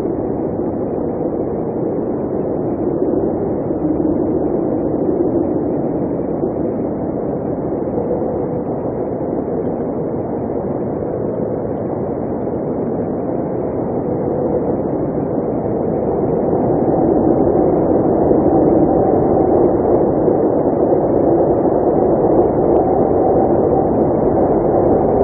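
Blizzard wind blowing steadily, swelling louder about two-thirds of the way through.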